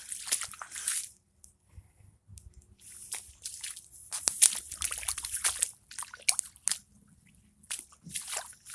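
Footsteps squelching through waterlogged, flooded ground: wet squishing and sloshing as each foot presses into the soaked soil, in irregular clusters with short pauses.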